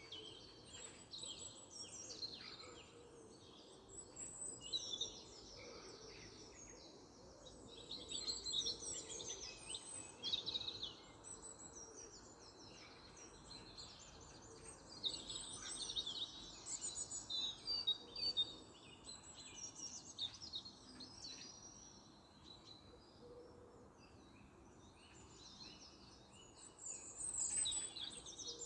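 Several songbirds singing and chirping in overlapping phrases that come in waves, over a faint steady background noise.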